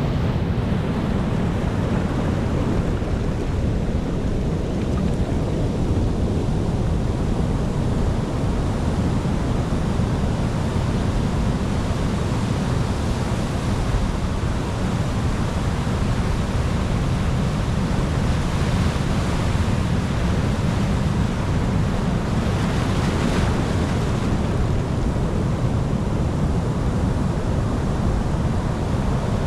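Ocean surf: a steady low rumble of waves, with the hiss of breaking water swelling twice in the second half.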